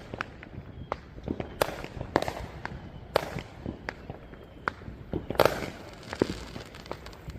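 Neighborhood fireworks and firecrackers going off: an irregular scatter of sharp pops and bangs, several with a short echo, the loudest cluster about five seconds in.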